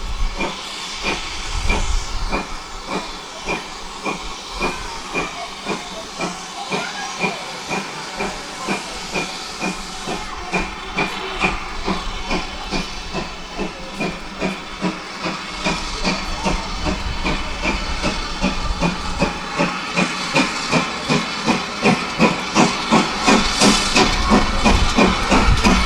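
Great Western Manor class 4-6-0 steam locomotive working hard, its exhaust beats quickening as it gathers speed, over a steady hiss of steam. It grows louder toward the end.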